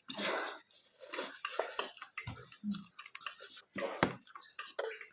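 Cutlery clinking and scraping against a dish, in a run of short, irregular clinks during a meal.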